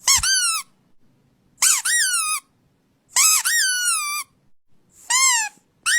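A squeaky toy squeezed four times, about every second and a half. Each squeak is high-pitched, rising and then falling.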